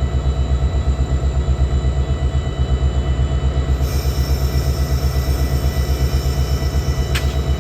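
Train running by with a loud, steady low rumble that pulses quickly and evenly. A faint hiss joins about halfway through, and a single short click sounds near the end.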